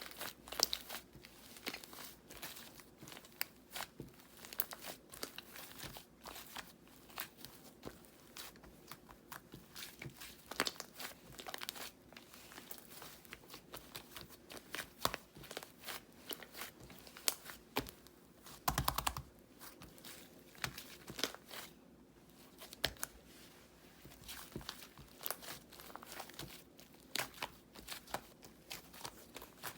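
White slime being squeezed, poked and stretched by hand, giving irregular sticky clicks and crackles, with a denser burst of crackling about two-thirds of the way through.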